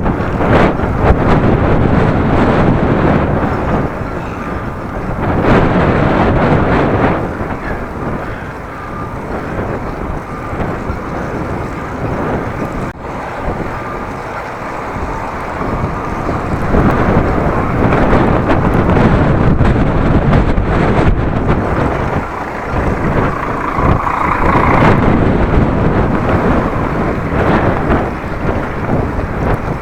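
Heavy wind buffeting the microphone while cycling, a loud rushing roar that swells and eases with the gusts.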